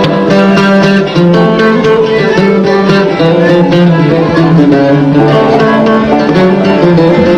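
Instrumental passage of Algerian chaâbi music: plucked string instruments and a violin play the melody together, with a quick run of plucked notes.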